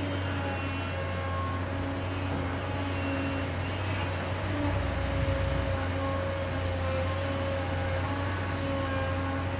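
Heavy diesel engine running steadily with a low hum, deepening briefly about five seconds in.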